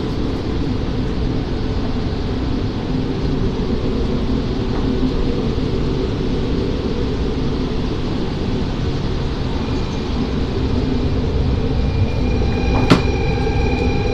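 Steady low rumble and hum of a double-decker MAX Shinkansen train, heard from inside the car. A faint steady high tone joins about ten seconds in, and there is a single sharp click near the end.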